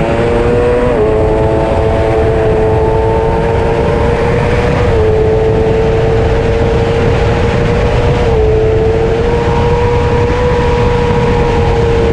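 Superbike engine running hard at high revs, its pitch held nearly steady with small dips three times, over a heavy low rumble.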